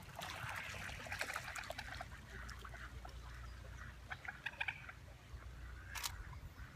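Waterfowl calling with short, repeated calls, and a single camera shutter click about six seconds in.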